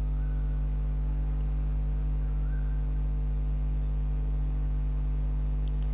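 Steady electrical mains hum: a constant low buzz with a stack of overtones, unchanging throughout.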